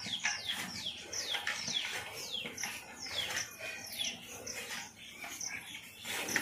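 A bird calling over and over, each call a quick high chirp that falls in pitch, about two a second. Beneath it, the crunch of a water buffalo chewing green fodder from a basket.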